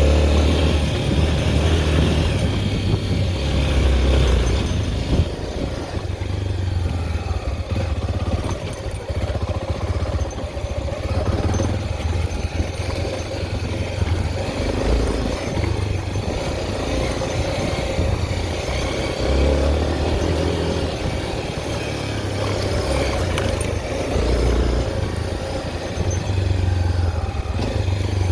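Honda XR 250 Tornado's single-cylinder four-stroke engine running steadily while riding, with a heavy, uneven low rumble of wind on the microphone.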